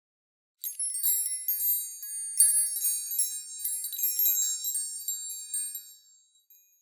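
High tinkling chimes, many ringing notes struck in quick succession, starting about half a second in and dying away near the end.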